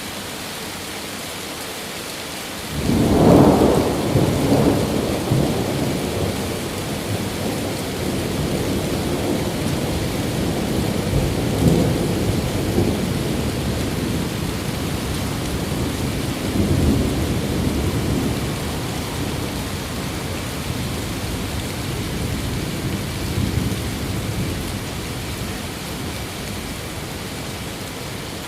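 Steady rain with a long roll of thunder that breaks in sharply about three seconds in, loudest at its start, then rumbles on in several swells and slowly dies away.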